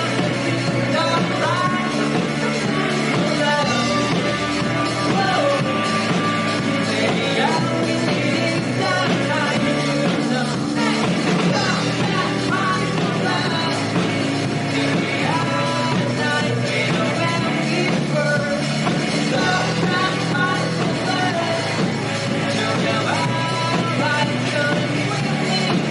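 Rock band playing live, with a lead vocal singing over guitars and drums without a break.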